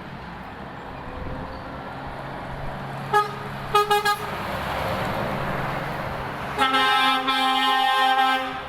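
Passing convoy trucks running, with a truck's air horn sounding: one short toot about three seconds in, a quick couple of toots a second later, then one long blast of about two seconds near the end.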